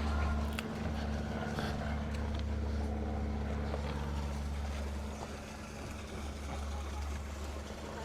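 A motor running with a steady low hum, dipping slightly about five seconds in.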